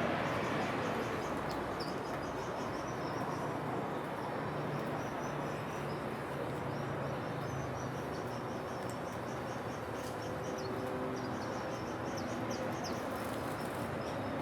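Small birds giving quick, high chirping trills again and again over a steady background rumble of outdoor noise.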